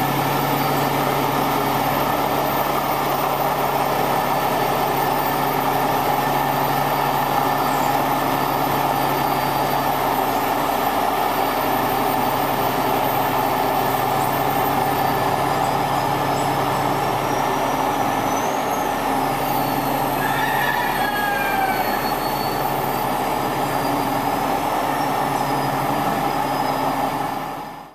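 Kenworth truck's diesel engine idling steadily, with faint high gliding squeals about two-thirds of the way through.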